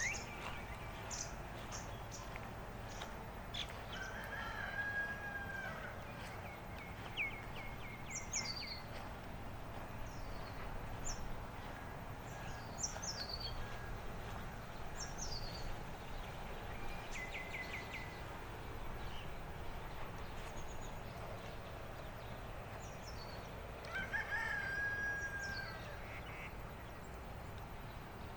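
Birdsong: many short high chirps and downward-sweeping calls, with quick runs of notes, over a steady low outdoor hum. A longer, lower call is heard twice, about five seconds in and again near the end.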